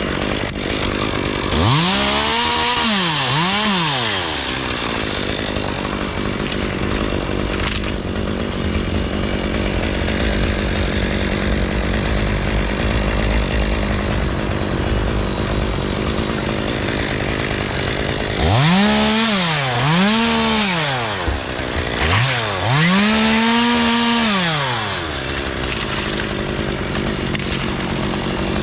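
Two-stroke chainsaw running steadily between revs, its engine pitch swept up and back down twice about two seconds in, then twice more and once longer near the end.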